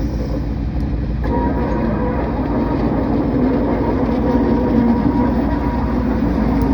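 Railroad track tamper's diesel engine running as the machine travels along the rails, a steady rumble. About a second in, a higher steady whine joins it and the sound grows slightly louder.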